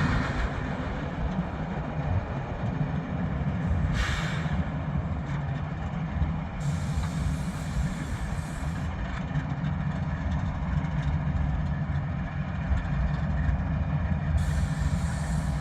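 Union Pacific freight train running by with a steady low rumble. A short hiss comes about four seconds in.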